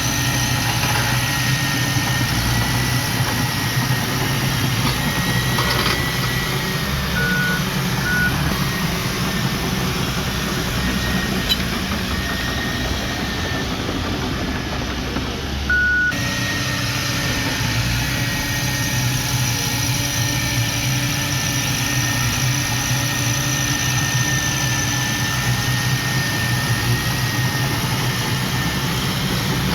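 Diesel engine of heavy earthmoving machinery running steadily, with a few short high beeps: two about seven seconds in and one more about halfway through.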